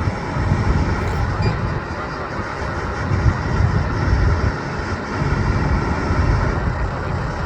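Jet airliner engines running, a steady rushing noise with a low rumble that swells and eases every second or two.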